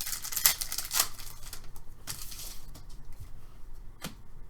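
Hockey trading cards being handled and flipped through, a dense papery rustle with many small clicks for the first couple of seconds, then softer handling and one sharp click about four seconds in.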